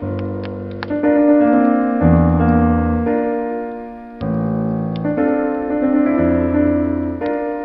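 Solo piano playing slow, sustained chords, the bass note changing about once a second. A wood fire crackles underneath with a few sharp pops.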